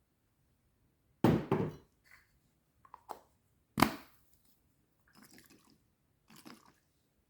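Wood fire crackling in a fireplace: a quick cluster of loud pops about a second in, a single sharp pop near the middle, and a few fainter crackles after, with near silence between them.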